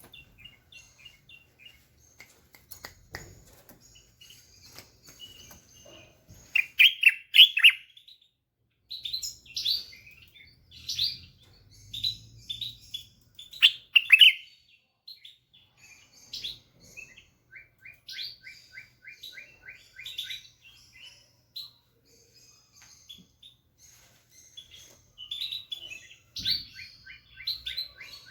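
White-eared bulbul singing: loud, liquid chirping phrases that repeat through the clip, with runs of quick, even short notes about three to four per second near the middle and again near the end.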